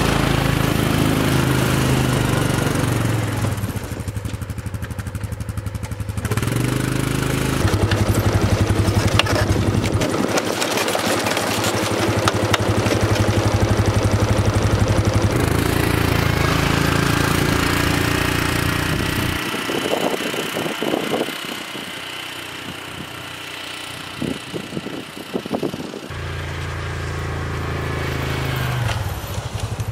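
ATV (four-wheeler) engine running and changing speed while plowing snow. It drops away for several seconds about two-thirds of the way in, with a few knocks and scrapes, then picks up again.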